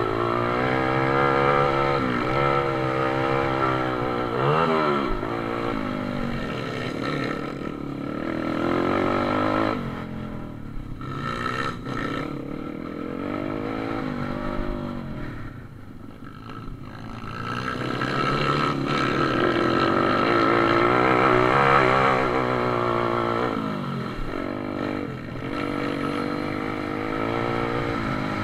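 Pit bike engines racing, their pitch rising and falling over and over as the throttle opens and closes. The sound drops away briefly about halfway through, then comes back louder.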